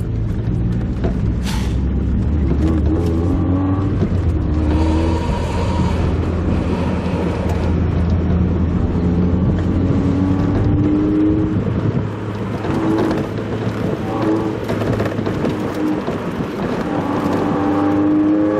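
Mazda Roadster's engine and road noise heard onboard while driving, sped up: a steady low rumble with the engine note rising several times as it revs.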